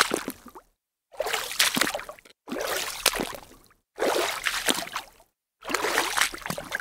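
Foley water splashing in a run of separate splashes, each about a second long, starting strong and fading out, with short dead-silent gaps between them. There are about five of them in a row.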